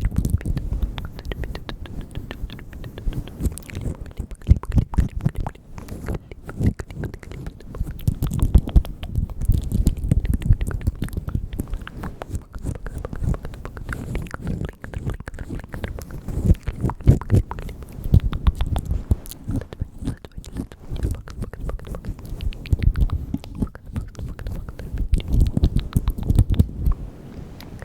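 ASMR mouth sounds close to the microphone: rapid wet clicks, pops and smacks in busy clusters.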